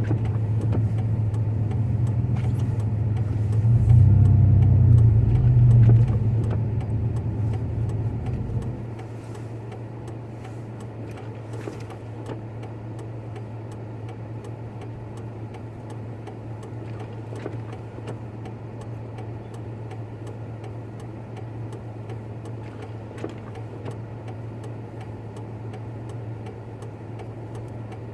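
Pickup truck engine running while driving, heard from inside the cab. It gets louder about four seconds in, then drops to a quieter steady hum about nine seconds in.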